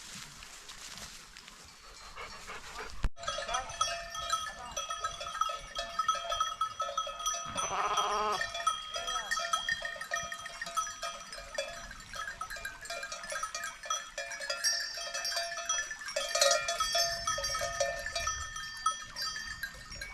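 Many livestock bells clanking and ringing together, as on a grazing flock, starting about three seconds in, with a short bleat around eight seconds.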